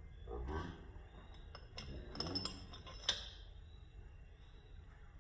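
Metal engine parts and hand tools clinking and clicking as they are handled, with a sharp clink about three seconds in.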